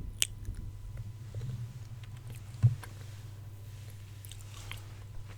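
Close-miked ASMR mouth sounds: scattered soft clicks and smacks, one louder smack with a low thump around the middle, over a steady low hum.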